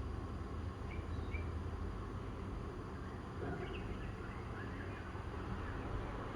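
Outdoor morning ambience: a few short, high bird chirps over a steady low rumble.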